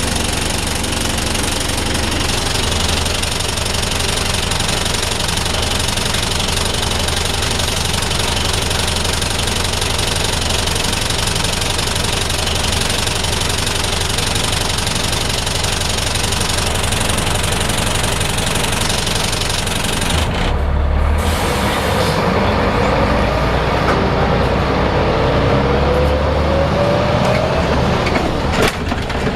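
DAF SB220 bus's diesel engine idling roughly with a knocking, banging beat, the bad idle when stationary that the bus is known for. About two-thirds of the way through the sound changes and a slowly rising whine comes in, with a few clicks near the end.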